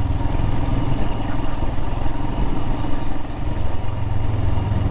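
Royal Enfield Himalayan motorcycle engine running steadily while being ridden, with a slight dip in level about three seconds in.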